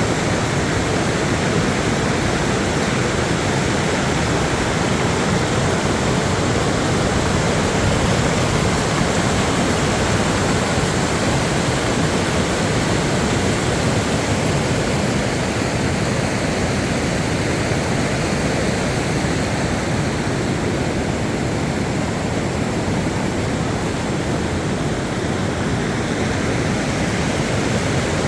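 Steady loud rushing of floodwater after days of heavy rain.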